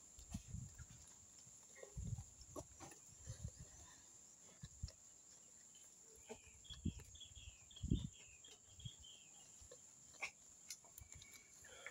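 Faint close-up chewing and mouth sounds with scattered soft low thumps. About six seconds in there is a quick run of high chirps from a bird.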